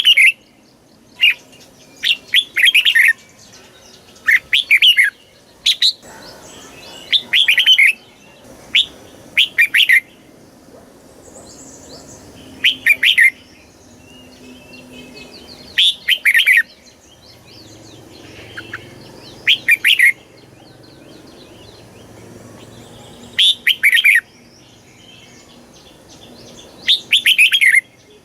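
Red-whiskered bulbul singing a string of short, loud song phrases, one every one to three seconds.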